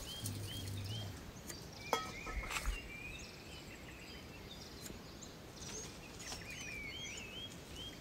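Small birds calling outdoors, repeating short rising chirps over a steady background hiss. A couple of sharp knocks come about two seconds in.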